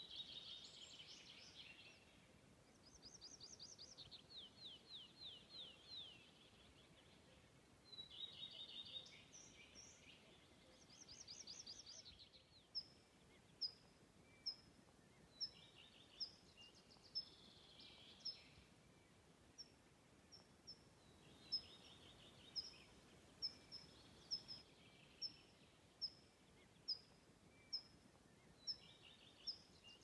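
Faint birdsong: several bursts of trilling song in the first half, then one bird repeating a short high note about once a second, with softer song phrases behind it.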